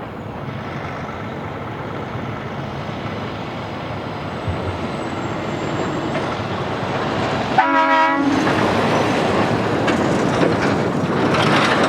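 A heavy vehicle passing with a steady, growing rumble, and a short horn blast about eight seconds in.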